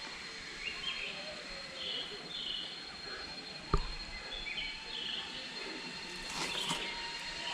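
Forest ambience of birds and insects: short high chirps repeating about once a second over a steady, thin insect whine. One sharp tap a little past the middle.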